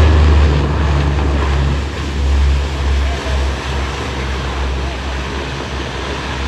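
C-130 Hercules's four turboprop engines at high power with the propellers in reverse pitch, braking the aircraft after touchdown. A loud, steady low rumble that eases slightly about two seconds in.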